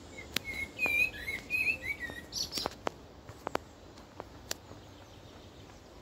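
A songbird singing a short run of quick, wavering chirps for about a second and a half, then a brief higher-pitched call, with scattered sharp clicks through the rest.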